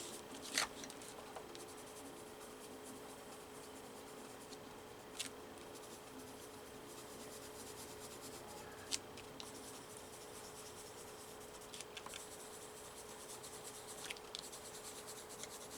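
Colouring strokes scratching across paper: steady, faint scribbling by hand, with a few sharp clicks and a faint steady hum underneath.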